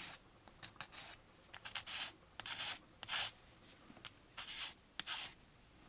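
Sanding strokes on the edge of a small plastic model-kit part, about eight short scratchy rubs at an uneven pace, taking off the moulding flash.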